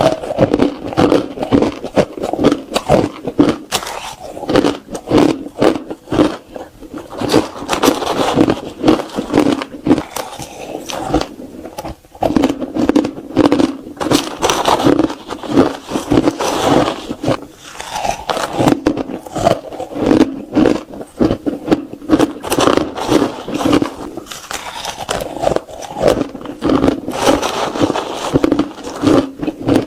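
A person crunching and biting ice with their teeth, close to the microphone: rapid, repeated crunches and cracks, with a short pause about twelve seconds in.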